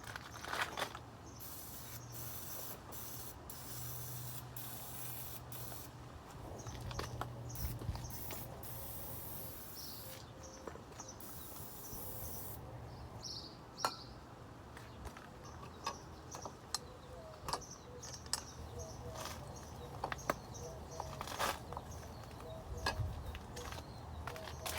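Aerosol can spraying in a run of hissing bursts, followed by scattered clicks and knocks of parts and tools being handled.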